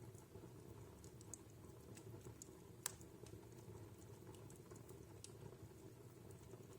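Wood fire crackling in a fireplace: scattered small pops and snaps over a faint low steady background, with one sharper pop about three seconds in.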